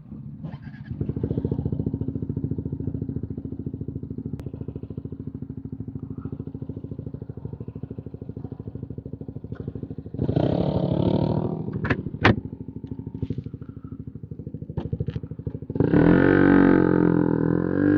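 A 125 cc single-cylinder motorcycle with a full Arrow exhaust idles with an even, quick pulse from about a second in. It is blipped briefly about ten seconds in, a sharp click sounds soon after, and it is revved harder near the end.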